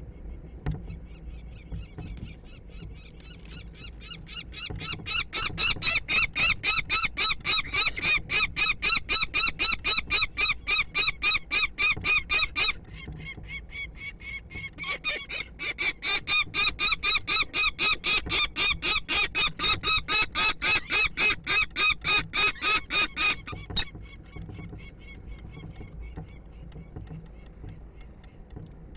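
Peregrine falcons calling at the nest during a prey delivery: a rapid, harsh series of calls, about three to four a second, in two long bouts with a short break between them.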